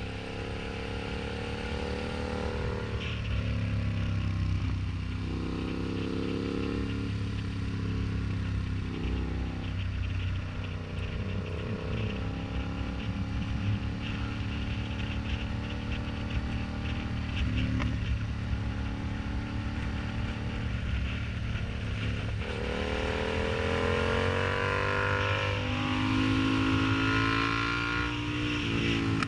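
Yamaha MT-07's parallel-twin engine running through an aftermarket exhaust while the bike is ridden, its pitch rising and falling with the throttle. About three-quarters of the way through it accelerates hard, the pitch climbing steeply.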